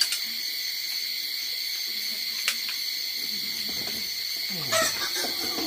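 Steady chorus of insects, likely crickets, making a continuous high-pitched drone. A few sharp clicks or knocks sound at the start, about two and a half seconds in, and near the end.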